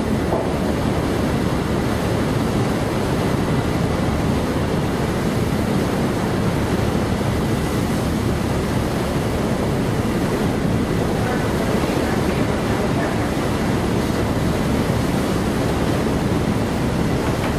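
Strong wind blowing across the microphone, with a steady rush of sea water beneath it.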